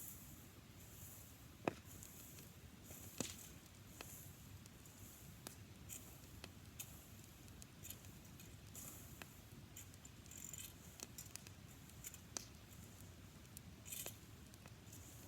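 Campfire of dry grass crackling faintly, with scattered sharp pops; the loudest come about two and three seconds in.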